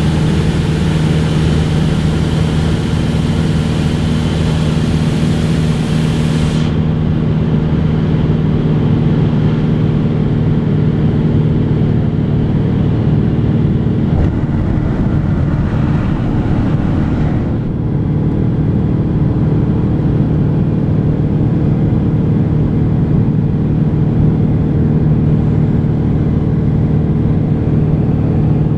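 Cessna 182 piston engine and propeller droning steadily, with a constant low hum and no change in power. The hiss above the hum drops away suddenly about seven seconds in.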